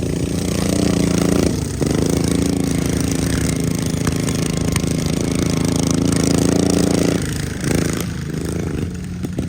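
Racing riding lawn mower engine running hard at steady high revs, with a brief dip in pitch about one and a half seconds in. The revs drop off about seven seconds in.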